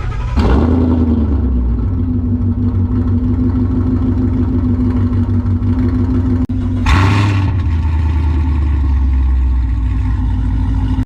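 Mustang V8 engine and exhaust revving up, then holding a steady note; a second rev comes about seven seconds in.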